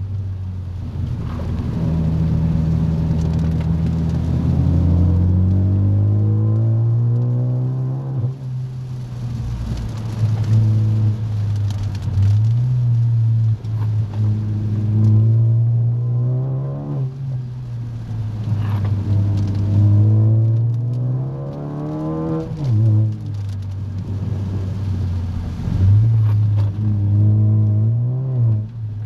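Car engine heard from inside the cabin, its pitch climbing under acceleration and then dropping off about every four to five seconds as the car is driven through a run of bends, with steady road and tyre noise beneath.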